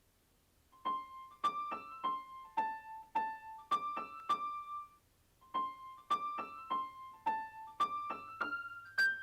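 Piano-sounding keyboard playing a single-note melody high up, each note struck and then dying away, in two phrases with a short pause between them.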